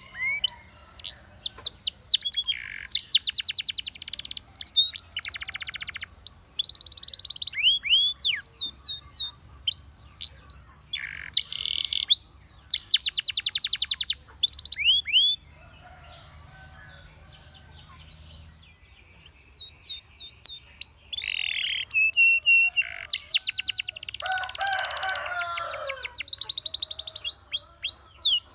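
Domestic canary singing: fast rattling trills and quick rising and falling whistled notes, broken by a pause of about three seconds midway before the song resumes.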